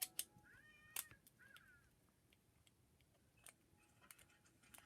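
Two short meows in quick succession about a second in, rising then falling in pitch, amid faint scattered clicks and taps.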